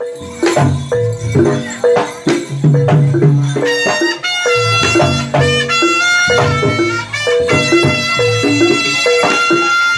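Live jaranan-style Javanese music: gamelan percussion beats out a repeating pattern of pitched notes over low drum strokes. A shrill reed pipe (slompret) joins with a held, wavering melody about four seconds in.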